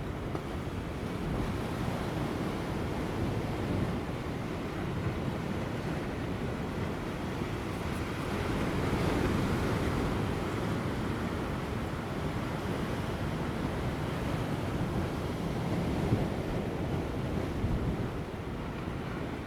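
Large ocean waves breaking on offshore rocks: a continuous wash of surf, with one wave surging louder about nine seconds in. Light wind blows under it.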